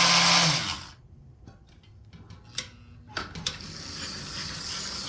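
American Flyer #23796 toy sawmill accessory running with a loud electric buzz that shuts off less than a second in and winds down. A few light mechanical clicks follow, then a low steady hiss.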